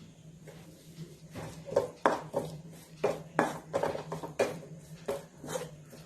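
A spoon stirring and scraping a sweet corn filling in a pan, with a string of irregular clinks and scrapes. A steady low hum runs underneath.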